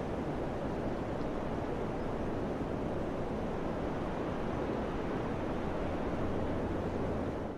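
Summer wind blowing steadily, an even, low rushing. It drops out for an instant at the very end.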